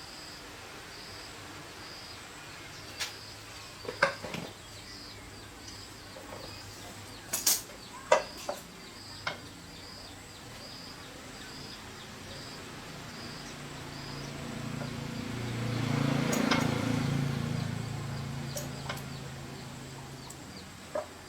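A high chirp repeating about twice a second through the first half, with a few sharp clicks and knocks between about 3 and 9 seconds in. In the second half a passing motor vehicle swells, peaks and fades away.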